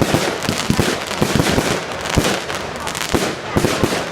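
Fireworks going off: a rapid, irregular run of bangs and crackles over a continuous hiss.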